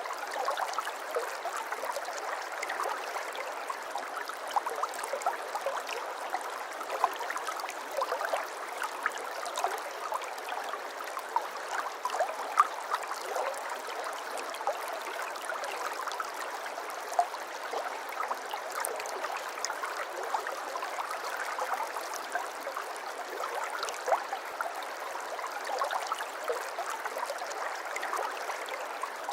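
Water in a small stream flowing and trickling steadily, full of quick little splashes and gurgles.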